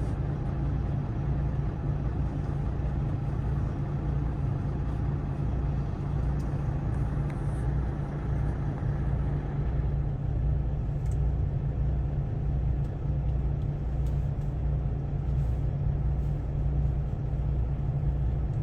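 Steady low rumble of an idling diesel truck engine, heard from inside the cab, with a slow, even throb in the bass.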